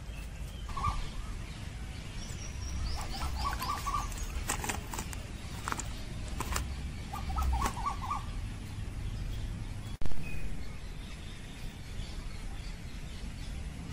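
Birds chirping in a few short runs of quick repeated notes, with some rising whistled notes, over a low steady rumble. A few sharp clicks come in the middle, and a brief loud bump about ten seconds in.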